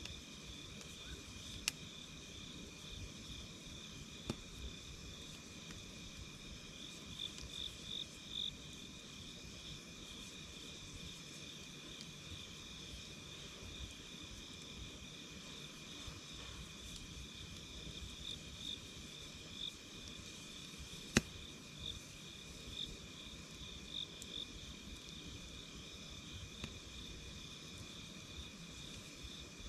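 A steady chorus of night insects chirping in fine, rapid pulses, with a few sharp pops from a crackling wood campfire, the loudest about two-thirds of the way through.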